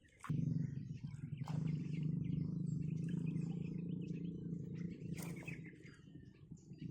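A steady low rumble that starts suddenly about a quarter second in, with birds chirping over it.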